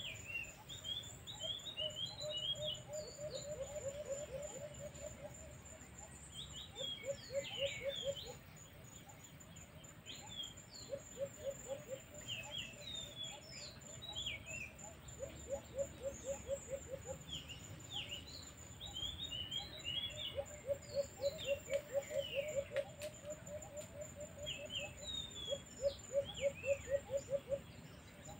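Birds calling: clusters of short high chirps and a low, rapid trill that comes in bouts of one to two seconds, several times over. A steady high-pitched whine runs beneath.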